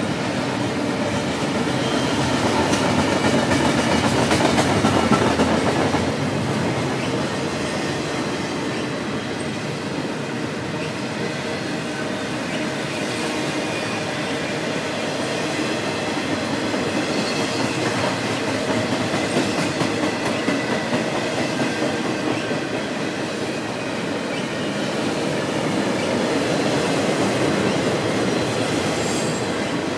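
A double-stack intermodal freight train's well cars passing close by at speed: a continuous rumble and clatter of steel wheels on rail that swells and eases a little as the cars go by.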